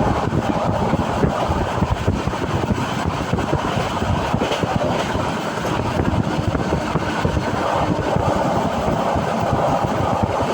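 Passenger train running along the track, a steady noise of wheels and carriage heard from inside the coach.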